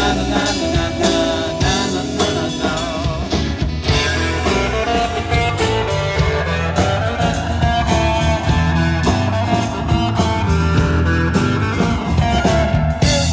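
Live rock band playing an instrumental passage: guitar lines over bass and a steady drum beat.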